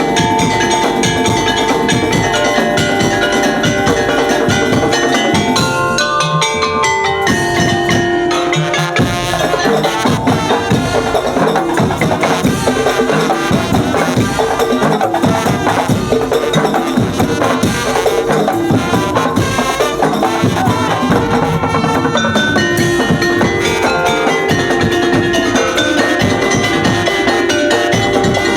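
Loud percussion ensemble music: drums and sharp wood-block-like knocks under a melody on tuned bells or mallet-struck instruments. The drums drop out briefly about six seconds in, leaving the melody, then come back in.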